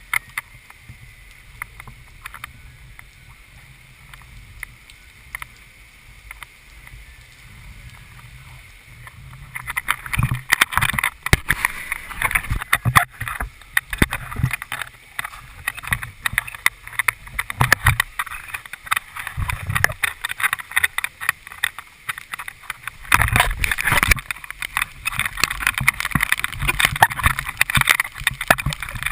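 Rough water splashing and sloshing in choppy, irregular bursts around a boat in storm conditions, getting much louder about ten seconds in.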